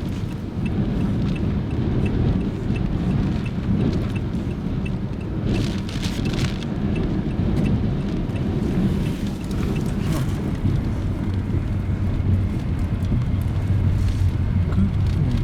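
Typhoon wind and driving rain buffeting the microphone: a steady heavy rush with stronger gusts about six and ten seconds in. A faint high tick repeats about three times a second through the first half.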